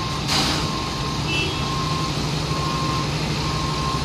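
A truck's diesel engine running steadily while a reversing alarm beeps about once a second, one tone per beep. There is a brief loud hiss about a third of a second in.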